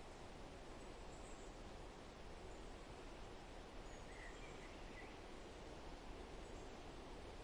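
Faint forest ambience: a steady, low rushing noise with a few faint bird chirps about four seconds in.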